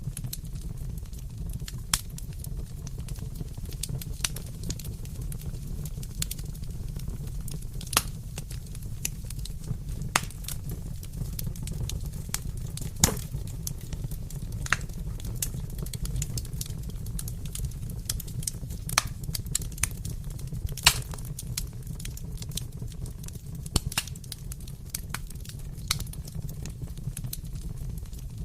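Wood fire burning in a fireplace: a steady low rumble of flames with irregular sharp crackles and pops, two of them louder about 13 and 21 seconds in.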